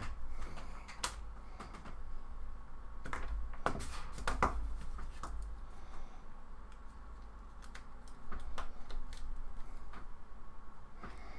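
Irregular light clicks and taps of small tools and parts being handled while a phone is reassembled, over a steady low hum.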